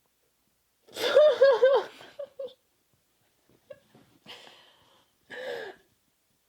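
A young woman laughing: a burst of about four quick pitched "ha" notes about a second in, then softer breathy giggles and a short falling vocal sound near the end.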